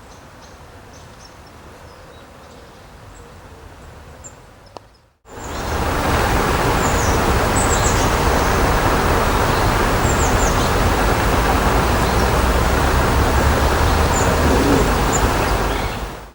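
Small birds chirping in short high calls over outdoor ambience. About five seconds in the sound cuts to a much louder steady rushing noise, with more chirps heard over it.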